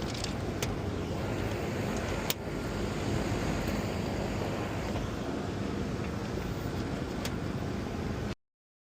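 Steady rushing noise of a rooftop HVAC unit running, with a few sharp knocks as its sheet-metal access panel is fitted back on, the loudest about two seconds in. The sound cuts off suddenly near the end.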